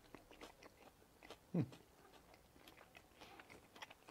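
A person chewing a mouthful of toasted tortilla-wrap lahmacun with faint crunching and mouth clicks. About one and a half seconds in there is a short, falling "mm" hum of enjoyment.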